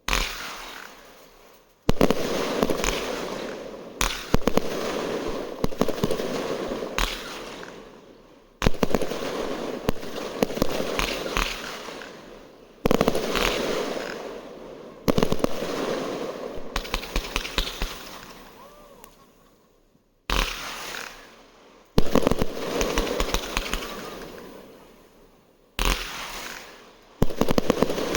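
Fireworks going off: a sharp bang every few seconds, each followed by a spell of dense crackling that fades away.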